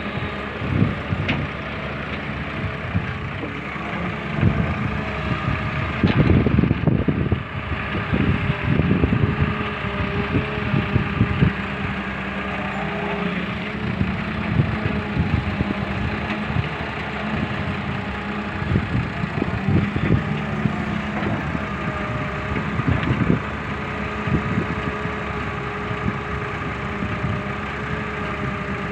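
Tractor engine running steadily, with irregular knocks and clatter over it that grow louder for a few seconds about six seconds in.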